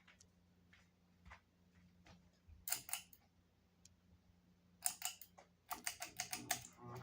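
Hampton Bay Littleton ceiling fan running with a faint steady motor hum, with irregular clicks and rattles in small groups, about three seconds in and again near the end.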